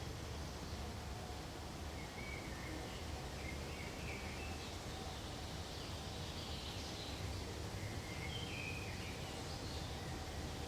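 Forest ambience: a steady low background hush with faint, scattered bird chirps, a few short calls about two seconds in and more about eight seconds in.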